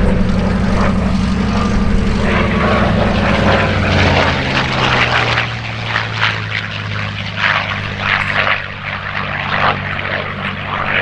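Propeller airplane's piston engine running loud as it flies past, its note dropping in pitch about four seconds in as it goes by.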